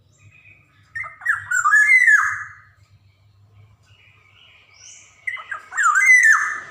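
Black-naped oriole (kepodang emas) singing two phrases of fluty, sweeping whistled notes, one about a second in and one near the end, with a pause between them.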